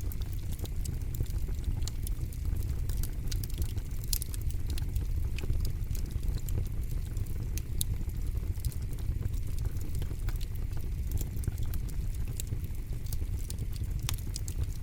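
Campfire burning with a steady low rumble and frequent irregular crackles and snaps, one louder pop near the end.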